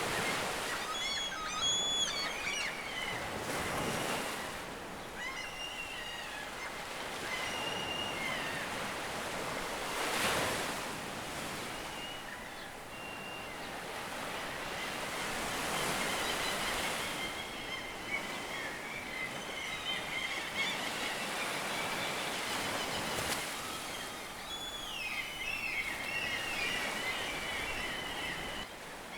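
Surf washing on the shore, several waves swelling and breaking in turn, the loudest about ten seconds in. Over it, birds call in short chirping runs, most busily near the start and again in the second half.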